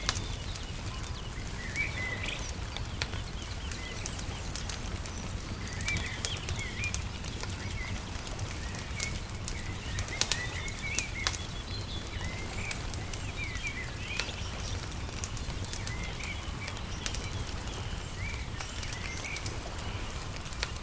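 Wood fire crackling with scattered sharp pops, small birds chirping in short bursts every few seconds, over a steady low rumble.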